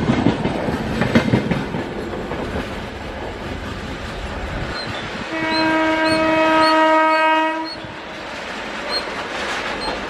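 Passenger coaches passing close at speed, wheels clattering over rail joints, fading to a steady rumble. Then an electric locomotive's horn sounds one long, steady, single-pitched blast of over two seconds, the loudest sound here, as the train approaches.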